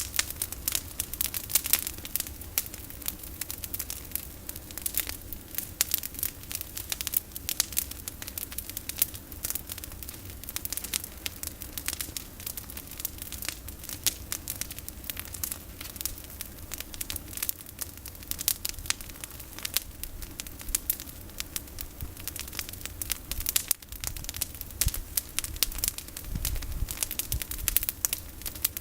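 A campfire of pruned olive branches burning, with dense, irregular crackling and popping throughout.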